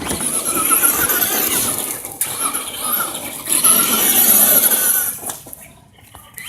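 Remote-control toy car's small electric motor and gears whining at high pitch as it drives, in two runs, dying away about five seconds in.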